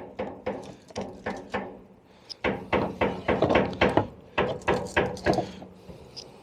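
Hammer knocking nails out of pallet planks: a run of quick wooden knocks, about two or three a second.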